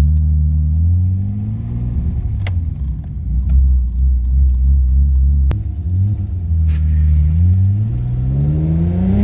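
BMW E30 engine pulling through the gears on a drive. The revs rise, drop back and hold low, then climb twice more, with a couple of sharp clicks along the way.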